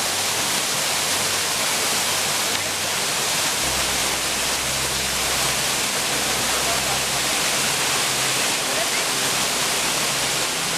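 Waterfall rushing steadily, a dense, even hiss of falling water. A low hum joins underneath about four seconds in.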